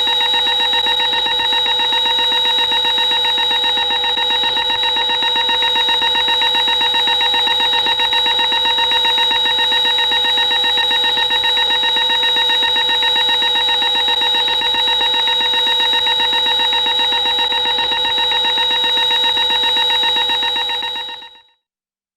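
A steady, buzzing drone made of several held tones at once, one of them wavering slightly, used as a horror sound effect; it fades out quickly near the end.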